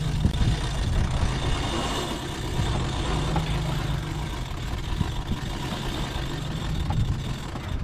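Steady rumble and rush aboard a sailboat under way: wind on the microphone and water along the hull, with a faint low hum beneath.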